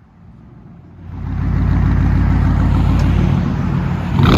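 2008 Dodge Dakota's 4.7-litre V8 with true dual straight-pipe exhaust, idling low and then revved hard about a second in and held high. As the throttle comes off near the end, the exhaust gives a few sharp cracks.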